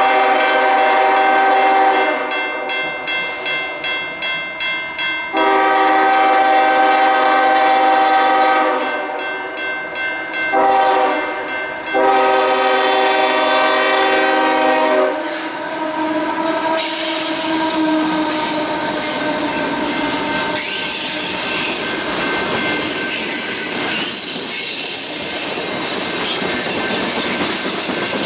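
CSX GE ES44AC locomotive's air horn blowing the grade-crossing signal: long, long, short, long, with a crossing bell ringing in the gaps. About halfway through, the horn stops and the locomotive passes close by, followed by the steady rumble, clatter and wheel squeal of freight cars rolling past.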